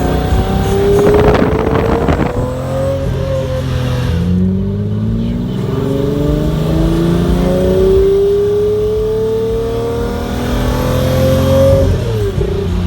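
Car engine accelerating, its pitch climbing slowly through long pulls, with a rough rattling burst about a second in and a sudden drop in pitch near the end.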